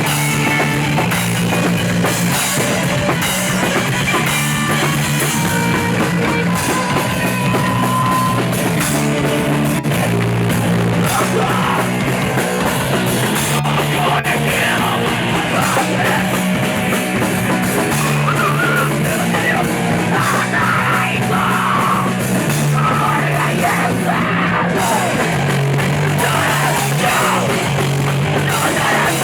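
Live punk rock band playing at full volume: distorted guitars, bass and a drum kit, with a low riff stepping between notes.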